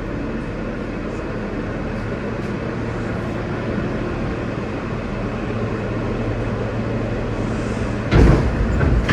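Steady hum of a New York subway car heard from inside the car, with a few low steady tones. About eight seconds in comes a loud, sudden knock or rattle lasting about a second.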